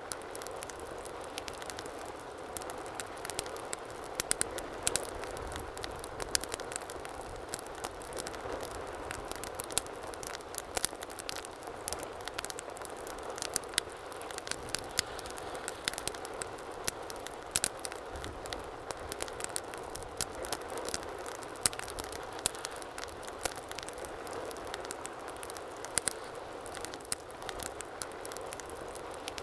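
Wood fire burning in a fireplace, crackling with frequent irregular sharp pops over a steady soft rush of flame.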